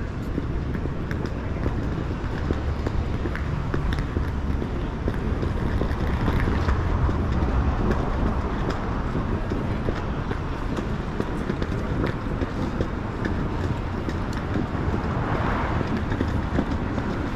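Busy city street noise: a steady low rumble of passing traffic with faint scattered clicks.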